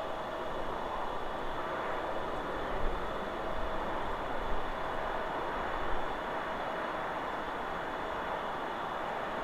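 Steady wind rushing through forest trees, with a few slight swells and low gusts on the microphone.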